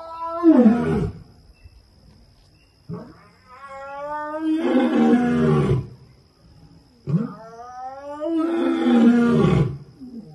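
A big cat calling three times, each call starting as a pitched tone that turns into a loud, rough roar and falls away in pitch. The first call is already under way at the start and ends about a second in; the others come about three and seven seconds in.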